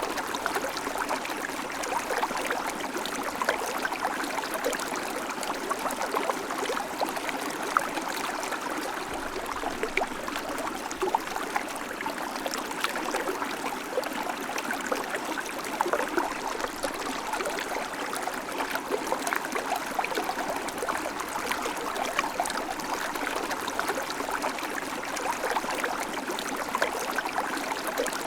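River water flowing and babbling over stones, a steady rush broken by small splashes and gurgles.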